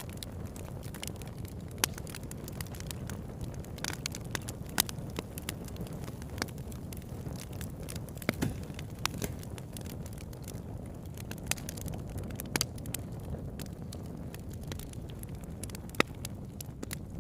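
Campfire burning: a steady low rush of flames with irregular sharp crackles and pops from the burning wood, the loudest about two seconds in, near five seconds and near the end.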